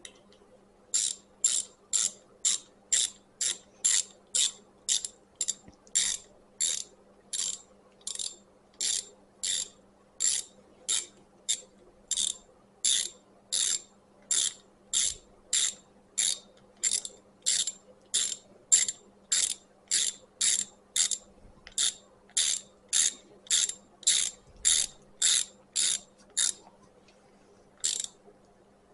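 Hand ratchet clicking in a steady series of short strokes, about two a second, as the screw on the recoil starter is driven back in. The strokes stop near the end, with one last stroke after a short pause.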